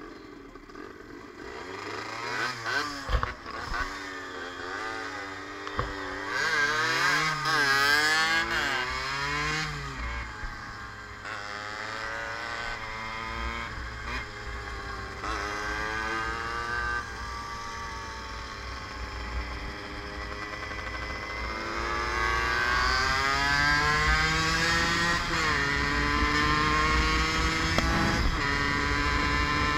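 Yamaha DT 50's small two-stroke single-cylinder engine revving as the bike pulls away. Its pitch rises and falls unevenly at first, then climbs through the gears with a drop at each shift. Wind rumbles on the microphone.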